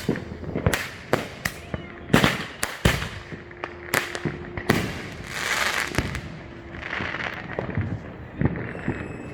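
Consumer fireworks going off around the neighbourhood: a string of irregular bangs and pops, several coming in quick succession, with stretches of hissing in between.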